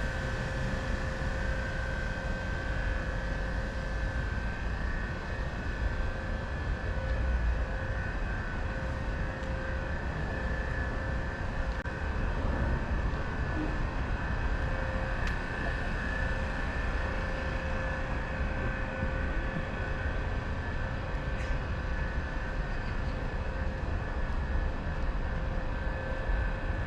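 Steady mechanical drone with a low rumble and a couple of held humming tones, unchanging throughout.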